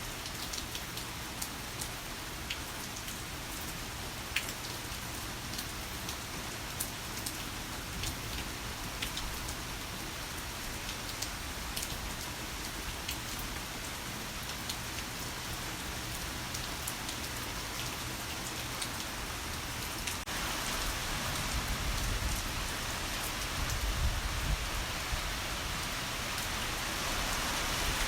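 Heavy rain falling steadily, with scattered sharp drip and splash hits. About two-thirds of the way through it grows louder and denser, with a low rumble underneath.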